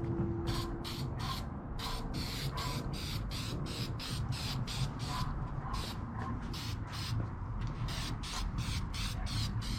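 Aerosol spray can hissing in short, quick bursts, about three a second, with a pause partway through, over a steady low rumble.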